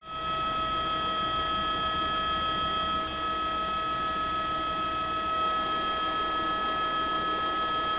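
Helicopter hovering: a steady high-pitched turbine whine over a constant low rotor rumble.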